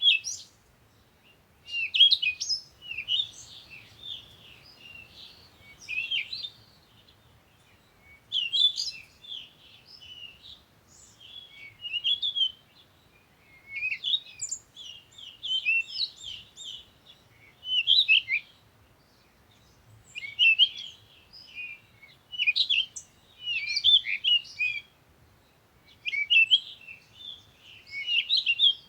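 Songbird singing: bursts of quick, high chirps and trills in phrases a second or two long, repeating every two to three seconds with short pauses between.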